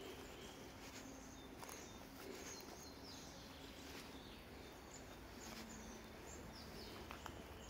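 Faint birds chirping over quiet background noise: short, high calls that drop in pitch, repeating every second or so.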